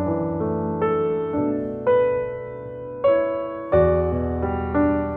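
Background piano music: a slow, gentle melody of single struck notes over held bass notes, each note fading after it sounds.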